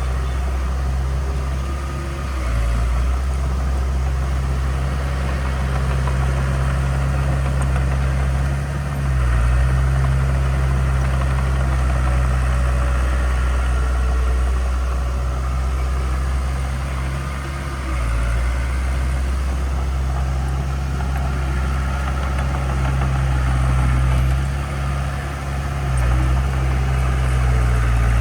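Heavy diesel engine of earthmoving equipment running steadily, low and loud, with slight changes in pitch and load every few seconds.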